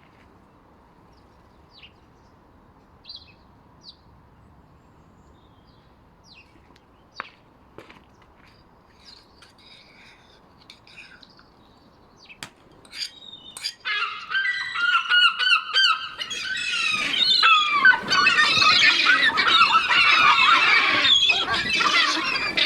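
A flock of hungry seabirds calling. At first there are only scattered single calls over a low background hiss. A little past halfway the calls build up, and for the last several seconds many birds call loudly at once in a dense, overlapping clamour.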